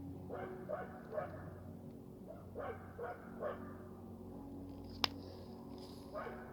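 A dog barking in short barks, in groups of two or three, with a single sharp click about five seconds in.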